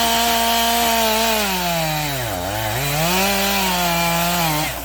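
Two-stroke chainsaw running at high revs, its pitch dipping sharply about halfway through before climbing back, then falling off near the end as the throttle is let go.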